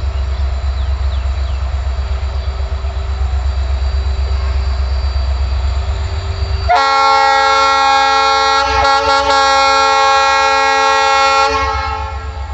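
Train running with a steady low rumble; about halfway through its horn sounds loudly for about five seconds, with a short break in the middle, then the rumble carries on.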